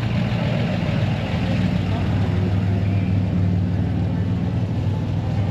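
Car engine idling steadily, a low pulsing rumble that holds even throughout.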